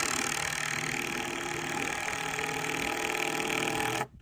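A motor running steadily with a hum and a hiss, then cutting off suddenly near the end.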